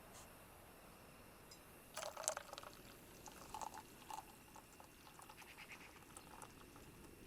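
Faint liquid sounds, small splashes and drips with a few light clicks. The loudest cluster comes about two seconds in.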